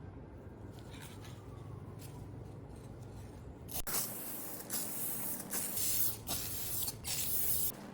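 Spray hissing in several short bursts, starting about halfway through, after a steady low hum in the first half.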